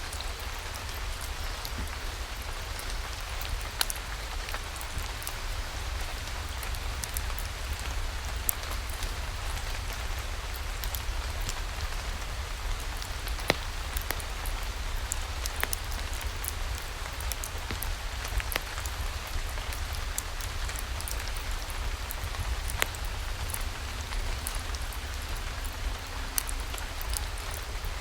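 Steady rainfall, with scattered sharp ticks and pops throughout and a low rumble underneath.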